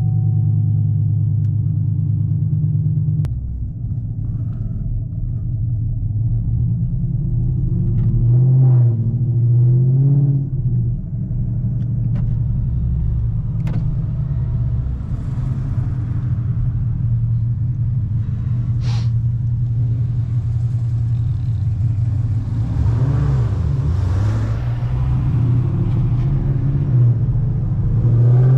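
Straight-piped Chevrolet Camaro V8 with headers rumbling at low speed, with short revs about eight to ten seconds in and again past twenty seconds, then climbing hard in pitch under acceleration at the end.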